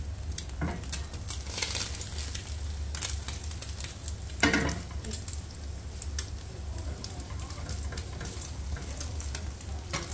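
Egg and paratha sizzling in oil in a nonstick frying pan, a steady crackle with scattered small pops. A brief louder scrape of the metal spatula on the pan comes about four and a half seconds in.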